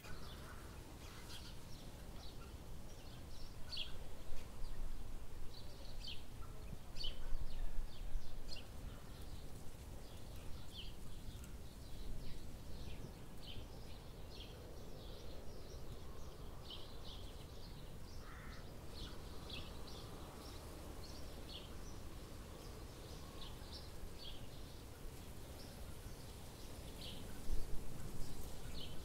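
Outdoor ambience: a steady low background rumble with small birds giving many short, high chirps.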